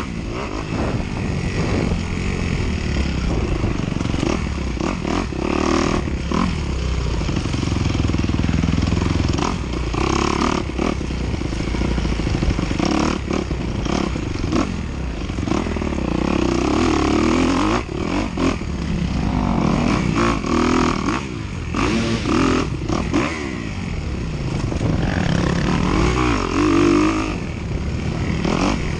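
Dirt bike engine revving up and down repeatedly as the bike is ridden hard over rough ground, with rattling and knocks from the bike over a steady rush of noise.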